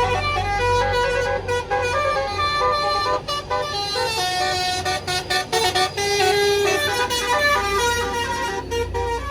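Bus basuri (musical multi-tone) horn playing a tune of held notes that step up and down in pitch, over a diesel engine's low rumble.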